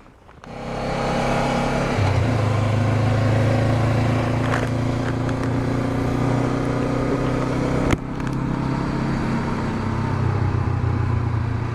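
Honda CB500X's parallel-twin engine setting off and then running steadily under way, its note shifting about two seconds in. A sharp click with a brief dip in the engine sound comes near eight seconds.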